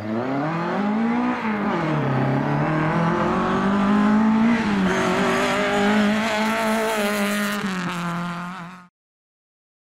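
Rally car engine revving hard under acceleration, its pitch climbing and dropping several times with gear changes and lifts; the sound cuts off suddenly about nine seconds in.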